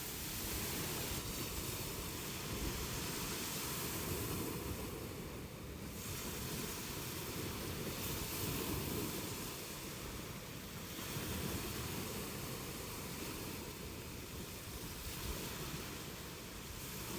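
Sea surf: waves washing on a shore as a steady rush that swells and eases every few seconds.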